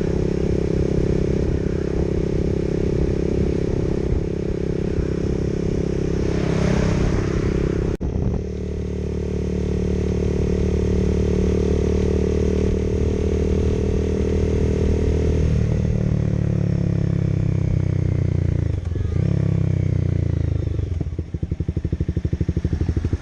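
Motorcycle engine running under way, its pitch dropping as it slows near the end, then settling into an evenly pulsing idle.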